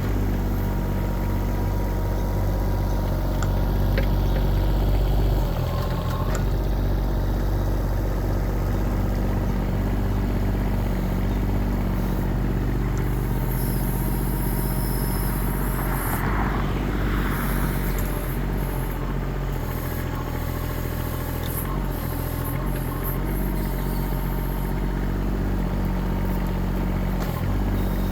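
Kubota diesel engine of a 1.6-ton mini excavator running steadily. Its note shifts slightly about five seconds in and again near the end, and there is a brief rustling noise about sixteen seconds in.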